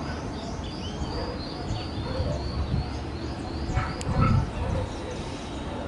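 Small birds chirping in a quick repeated series, several short high notes a second, over a steady low rumble. A brief louder sound comes about four seconds in.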